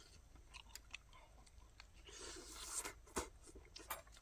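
Faint sounds of people eating at a table: scattered small clicks and ticks, a brief rustle about two seconds in, and a sharper click just after three seconds.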